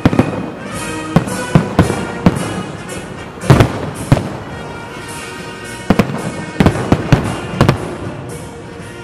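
Fireworks salute shells bursting overhead: about a dozen sharp bangs at uneven intervals, the loudest a little over three seconds in, with music playing underneath.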